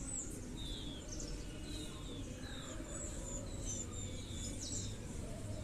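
Birds chirping in the background: short, high, downward-slurred notes, about two a second, over a low steady hum.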